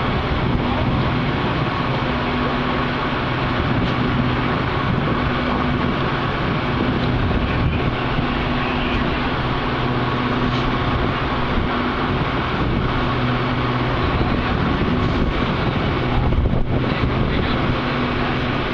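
Metra commuter train's diesel locomotive engine running steadily with a constant low hum, with wind buffeting the microphone.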